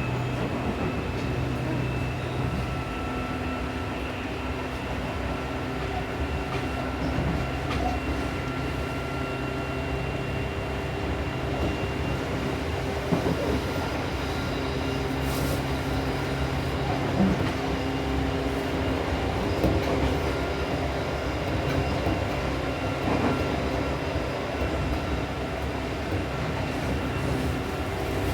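Seibu New 2000 series electric train running at speed, with a steady motor and running hum and several steady tones. A few short rail-joint clicks come through, spaced several seconds apart.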